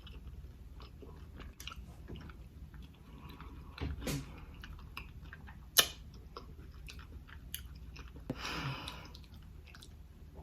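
Close-miked chewing of a big spoonful of seafood and rice, with wet mouth clicks throughout and one sharp click about six seconds in.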